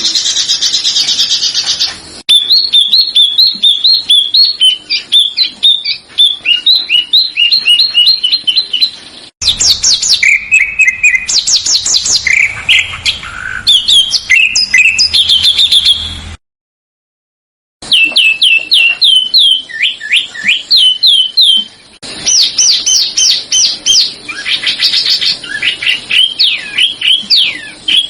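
Recordings of small songbirds singing, several clips edited back to back with abrupt cuts and a silent gap of about a second and a half partway through. Rapid runs of repeated chirps and fast downward-sweeping whistles, used as masteran song for training caged songbirds.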